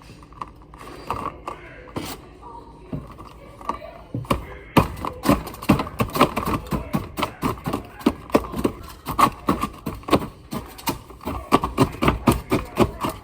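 Oreo cookies being crushed with a metal fork in a mug. There are a few scattered clicks at first, then from about five seconds in a fast, steady run of sharp taps, about five a second.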